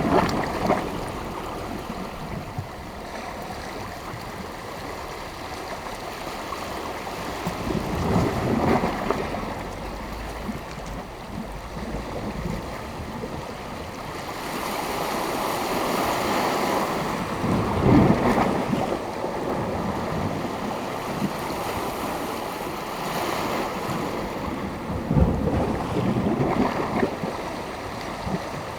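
Sea waves breaking and washing on the shore, a continuous surf noise that swells with louder breakers several times, with wind on the microphone.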